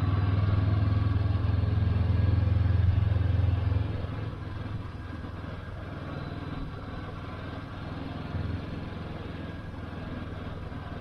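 Motorcycle engine running under way, with a strong steady low note that drops to a quieter, lower level about four seconds in and then runs on steadily.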